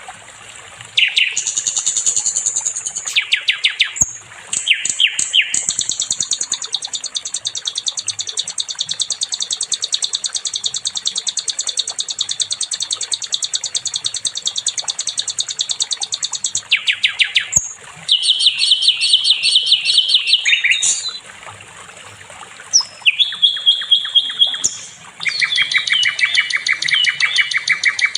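Sikatan londo songbird singing fast, rattling trills of rapidly repeated notes. A long trill runs for about ten seconds, followed by shorter trill phrases that jump between pitches, with brief pauses between them.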